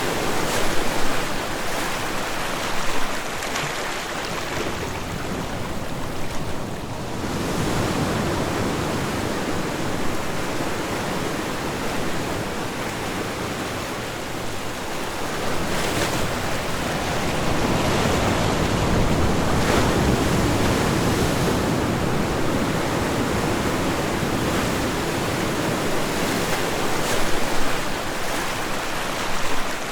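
Ocean waves breaking and washing on a shore, a continuous roar of surf that swells and ebbs over several seconds, with a few brief sharper splashes near the start and near the end.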